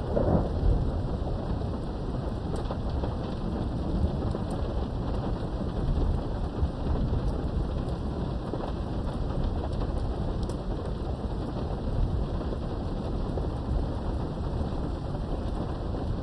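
Steady heavy rain with rolling thunder: a low rumble swells in the first second, under a constant patter of drops.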